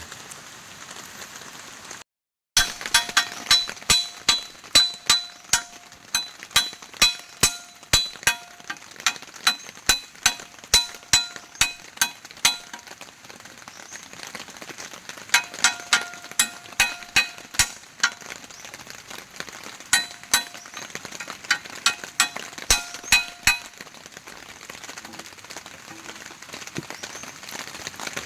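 Repeated clinking of a utensil against a dish, two or three strikes a second, in three runs with short pauses between. Each strike rings at the same pitch, over a steady hiss of rain.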